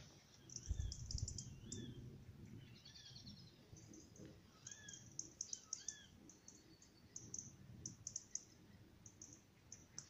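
Birds calling: short whistled notes that swoop up and down, repeated several times, with quick runs of high ticking notes between them. A few low thumps come about a second in and are the loudest sound.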